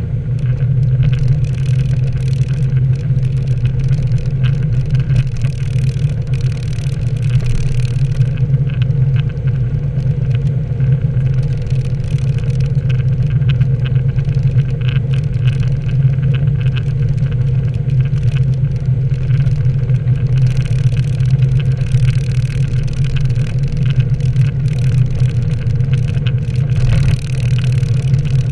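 Nissan 240SX (S13) engine droning steadily as the car is driven on a wet road, with a crackling hiss of tyre and water noise over it that thins out for a few seconds about eight seconds in.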